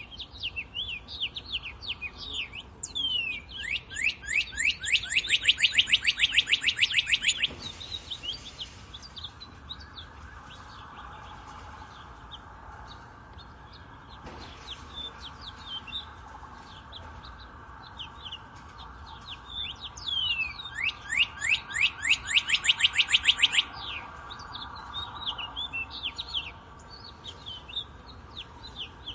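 Birdsong: several birds chirping throughout, with two loud trills of rapidly repeated down-sweeping notes. The first trill comes a few seconds in and the second about two-thirds of the way through, each lasting a few seconds.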